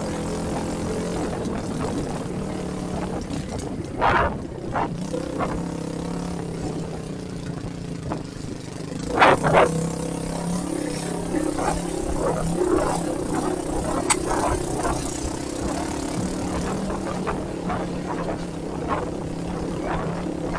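Motorcycle engine running at a steady speed while riding, with wind and road noise, and a few short louder bursts about four seconds and nine seconds in.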